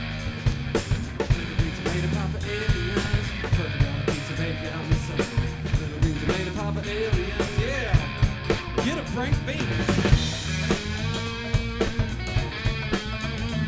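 Live rock band playing an instrumental passage, with a steady drum kit beat under the other instruments.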